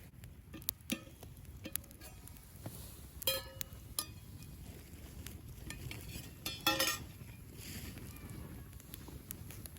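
Metal cookware and utensils clinking and tapping, with two ringing clinks about three and seven seconds in among smaller clicks.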